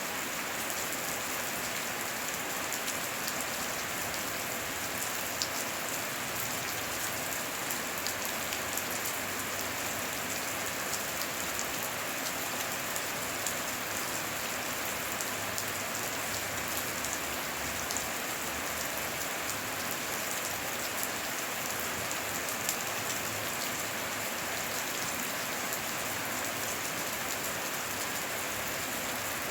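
Steady heavy rain falling, a dense even hiss with many small drop ticks on surfaces.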